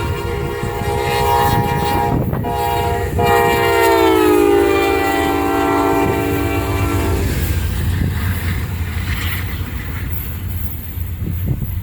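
Train passing close by, its locomotive air horn sounding a multi-note chord in a sequence of blasts. The last long blast drops in pitch as the locomotive goes by, then cuts off about seven seconds in, leaving the rumble and rail clatter of the passing train.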